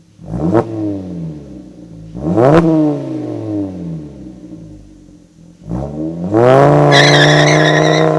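VW Rabbit MkV's 2.5-litre five-cylinder through an AWE cat-back exhaust and USP test pipe, blipped twice from idle in quick revs that rise and fall. About six seconds in it revs up and holds at high revs, climbing slowly, with a high wavering squeal over it for about a second.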